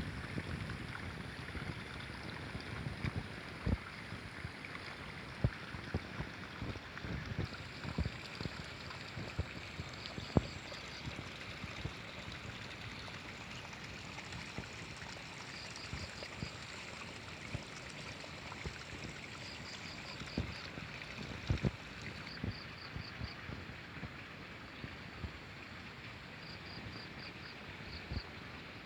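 A river flowing with a steady rushing hiss, with scattered sharp clicks and knocks. A short run of four to six high chirps repeats every few seconds.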